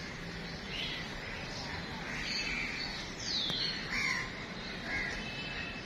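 Birds calling: scattered short calls, one falling steeply in pitch a little past three seconds in, over a steady outdoor background hum.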